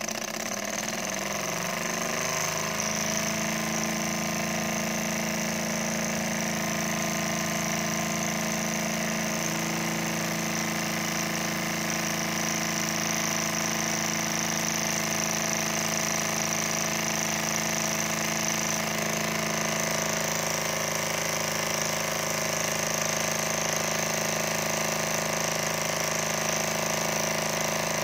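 Small model Stirling engine running: its speed rises over the first couple of seconds, then holds steady with an even hum and a high whine.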